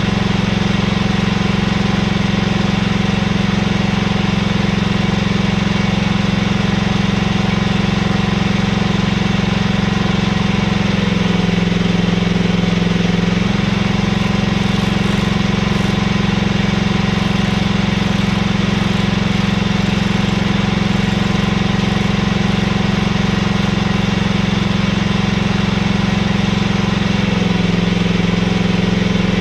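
Mini excavator's engine running steadily while digging, with its pitch dipping briefly twice as the load changes.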